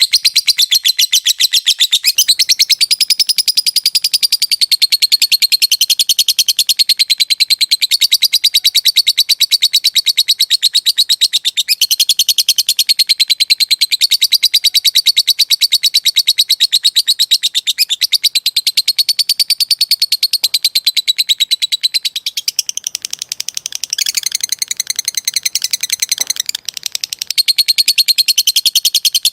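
Lovebird giving a long, fast chattering trill (ngekek): very rapid high-pitched notes many times a second, almost without a break. About three-quarters of the way through, the trill loosens and weakens for a few seconds, then the fast chatter resumes.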